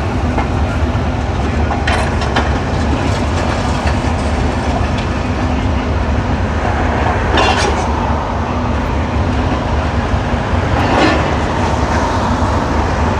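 Heavy demolition machinery running with a steady low rumble, with scraping crashes of debris or metal about two, seven and eleven seconds in.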